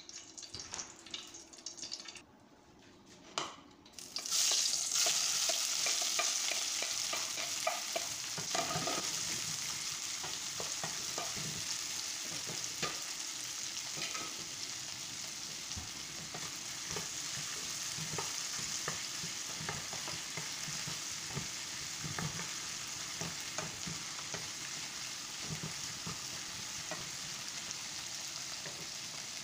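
Chopped vegetables frying in hot oil in a small nonstick wok. The sizzling starts suddenly about four seconds in and then keeps on steadily, with the light taps and scrapes of a wooden spatula stirring the pieces.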